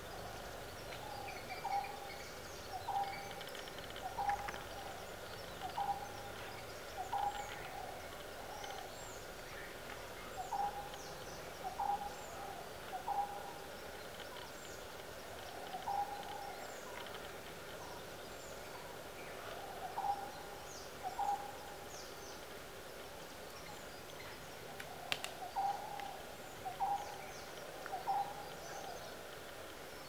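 Outdoor bird calls: a short low call repeated in runs of two to four notes, with faint high chirps from other birds over steady natural background noise.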